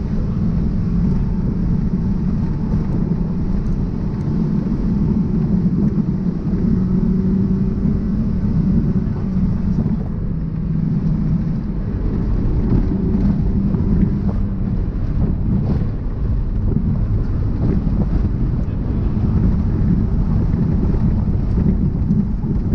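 Mazda NA MX-5's four-cylinder engine running hard at stage speed, heard inside the cabin along with tyre and road noise. The engine note rises and falls.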